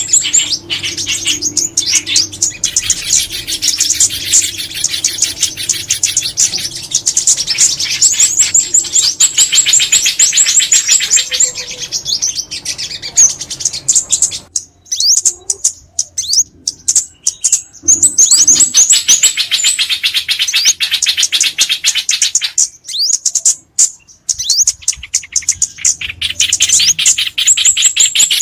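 Bird-call lure recording of small songbirds, bulbuls and sunbirds, played for trapping: fast, high-pitched chirping and twittering trills of rapid repeated notes, broken by a few short pauses about halfway through.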